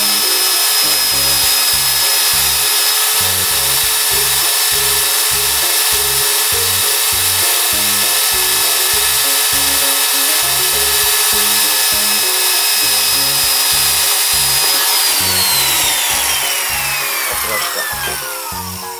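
Corded electric drill with a 22 mm power bit running steadily as it bores through a plastic cooler box wall with foam insulation inside. About three seconds before the end the motor is released and its whine falls steeply in pitch as it spins down.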